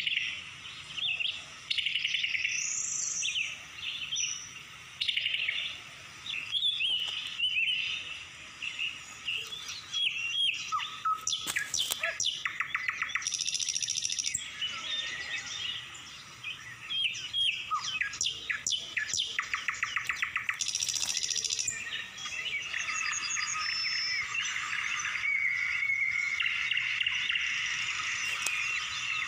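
Several wild birds calling and singing, a mix of short chirps, whistles and fast trills. In the latter part a steadier high-pitched buzzing chorus comes in under them.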